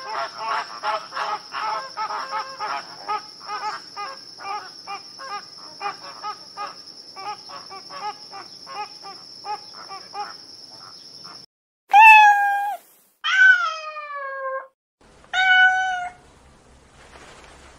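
A domestic cat meows three times, loud and drawn out, each meow falling in pitch, starting about twelve seconds in. Before it comes a run of short repeated calls from another animal, about two a second, over a steady high whine, which stops abruptly.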